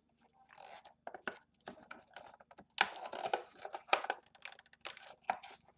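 A cardboard toy box being handled and its tape picked at by hand: irregular clicks, scrapes and rustles, busier from about halfway through.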